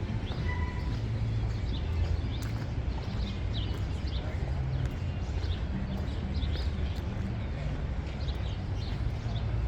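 Horse hooves clip-clopping on pavement over a steady low traffic rumble, with birds chirping throughout and a brief beep about half a second in.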